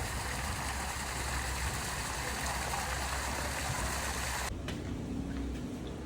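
Steady rushing noise of water and wind. About four and a half seconds in it turns abruptly duller, with a low rumble of wind on the microphone.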